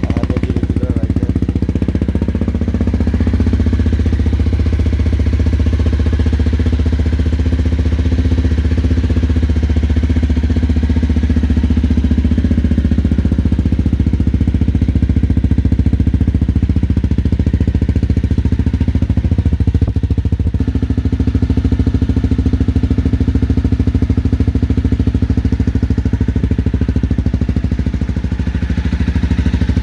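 Honda CBR250R's single-cylinder engine idling steadily through an aftermarket Delkevic stainless steel exhaust, with an even, unchanging note.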